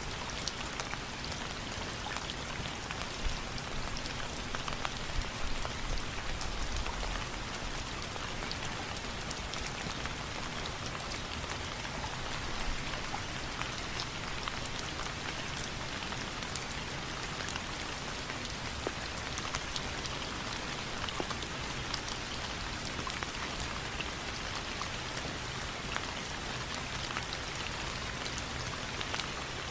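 Steady rain falling, an even hiss sprinkled with many sharp little ticks, with a brief low rumble about five to seven seconds in.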